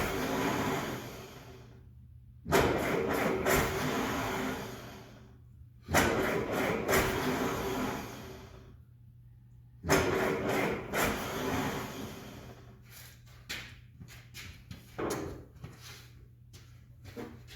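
Four-cylinder engine of an M151A1 jeep being cranked by its starter in four bursts of a few seconds each, not catching, followed by several shorter knocks. The engine is being started on ether and needs a fuel pump and carburettor rebuild.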